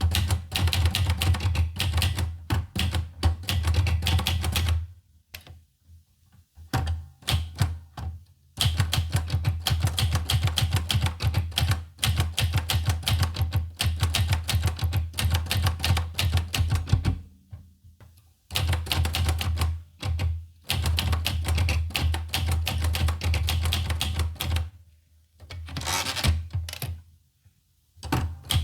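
Olivetti Lettera 25 typewriter being typed on: fast runs of key strikes, each with a clack and a low thud. The runs are broken by pauses of a second or more, about five seconds in and again near the end.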